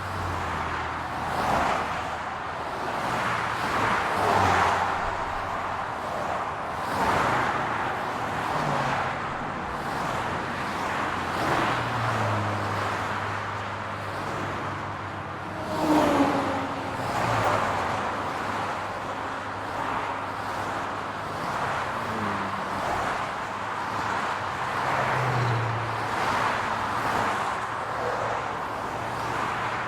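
City street traffic: cars passing one after another, each swelling and fading, over a low steady engine hum. About 16 seconds in, a louder pass comes with a short falling tone.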